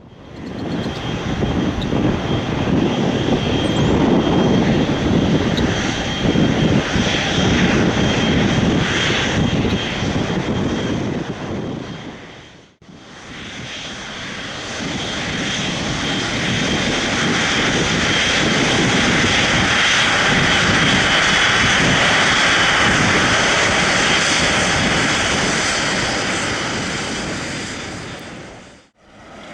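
Boeing 777-240(LR) twin GE90 jet engines running close by: a loud steady rush with a thin high whine over it. There is a short break about a third of the way in, then the sound swells and fades again.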